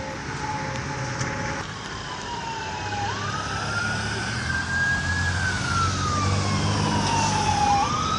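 Fire truck's wailing siren, slowly rising and falling in pitch with each sweep lasting several seconds. It comes in about a second and a half in and grows louder as the truck approaches, over a low engine rumble.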